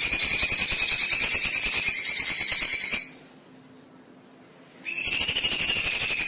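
Cucak cungkok songbird singing a loud, dense, rapid high-pitched trill. It fades out about halfway through, falls silent for over a second, then starts again suddenly.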